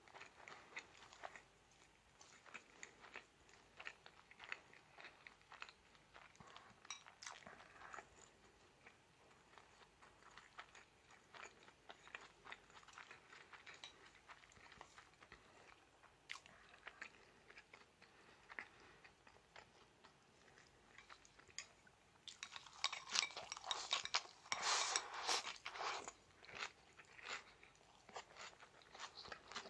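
Close-up chewing and crunching of crisp raw salad vegetables: a run of small crunches, louder and denser for a few seconds near the end.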